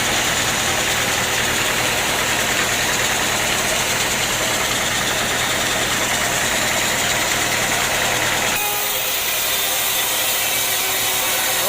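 Sawmill machinery running steadily, with a low engine hum under a wide mechanical noise. About eight and a half seconds in, the low hum cuts off abruptly and a thinner, higher running noise carries on.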